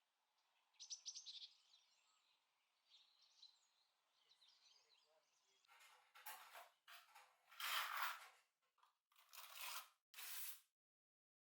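Faint bird chirps, then about five short swishing noises over the last few seconds, louder than the birds.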